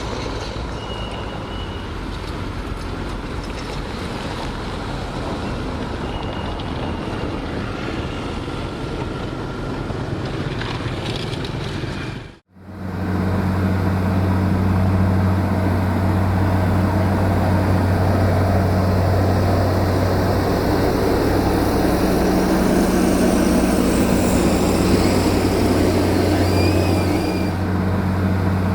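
Heavy earth-moving machine's diesel engine running steadily under work. There is a sharp break about halfway through, after which a louder engine with a strong low hum carries on.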